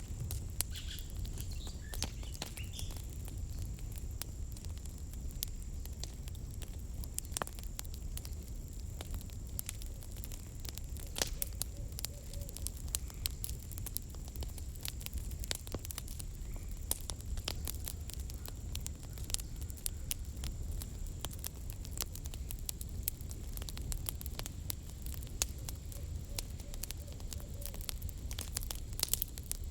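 Wood campfire crackling, with many sharp irregular pops and snaps over a steady low rumble of the burning fire. A thin, steady high tone runs underneath.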